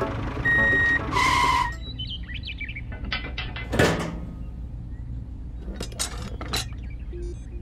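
Light metallic clicks and taps as a toy tractor's hitch pin is fitted through a trailer's ring, over a steady low hum with bird chirps. A short, loud sound of two steady tones comes about a second in.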